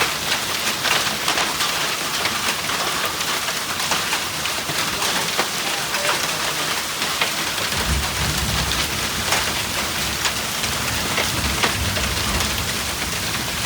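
Heavy rain and hail coming down: a dense, steady hiss peppered with sharp clicks of hailstones striking. A low rumble joins in about eight seconds in.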